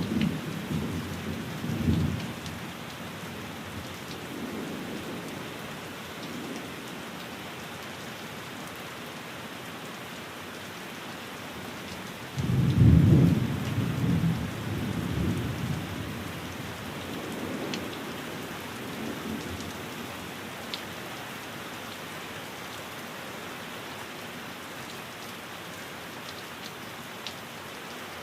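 Steady rain falling on a window, with thunder rumbling: a roll dying away at the start, and another loud low peal about halfway through that fades over a few seconds. A few faint clicks sound in the second half.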